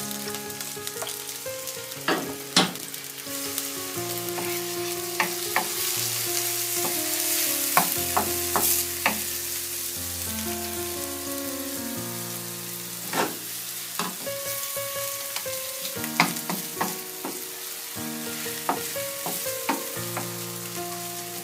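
Chopped garlic and onion sizzling in hot oil in a nonstick frying pan, with a wooden spoon knocking and scraping against the pan as they are stirred, a dozen or so sharp knocks spread through the steady sizzle.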